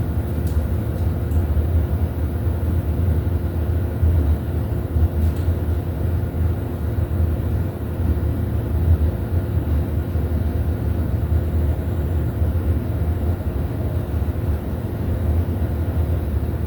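Steady low machine hum with a faint steady tone above it, unchanging throughout.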